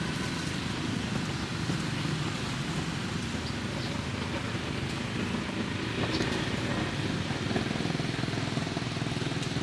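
Steady road-traffic noise: vehicle engines running and passing in a continuous rumble.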